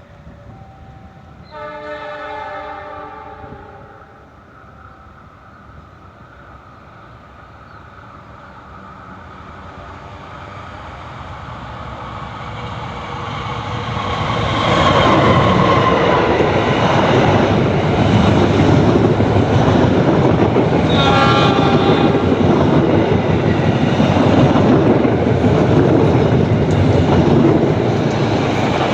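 KAI CC206 diesel-electric locomotive hauling a passenger train. It sounds a chord horn a couple of seconds in as it approaches, and the rumble builds until it runs close past, loud and steady, with wheels clattering on the rail joints. A second, shorter horn blast comes while it passes.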